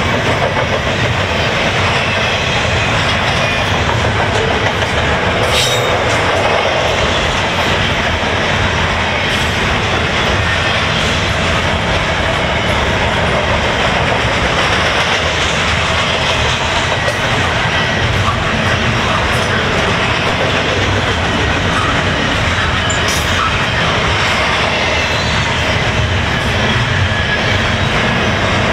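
Double-stack intermodal well cars of a long freight train rolling past at about 45 mph: a steady, loud noise of steel wheels on rail, with a sharp click about five and a half seconds in and again near twenty-three seconds.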